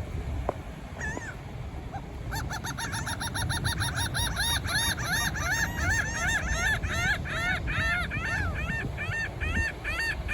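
A gull calling: one call about a second in, then a fast run of short, arching calls, about five a second, from about two seconds in. A steady low rumble of wind and surf runs underneath.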